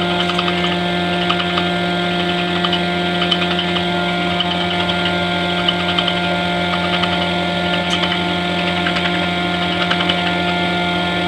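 A machine running steadily: a constant motor hum with scattered light ticks and clicks over it.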